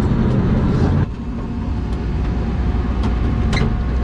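A vehicle engine running with a steady low rumble, which drops off sharply about a second in and continues more quietly, with a few short clicks near the end.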